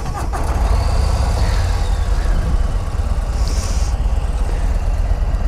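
Motorcycle engine idling: a steady low rumble.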